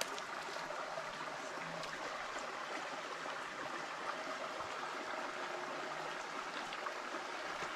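Small forest stream running steadily, a continuous even rush of water.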